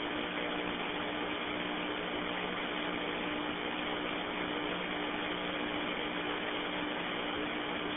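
Steady hiss of an open radio channel, with a faint low hum underneath.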